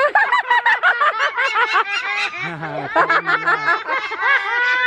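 White parrot chattering in a rapid run of short, high, arching notes that sound like a giggling laugh.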